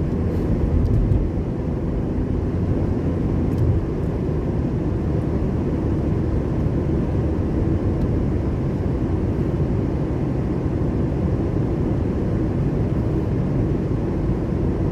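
Steady low rumble of a car heard from inside the cabin while driving, with a couple of brief bumps.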